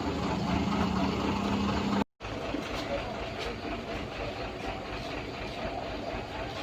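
Heavy truck engine running at idle, with a short break in the sound about two seconds in.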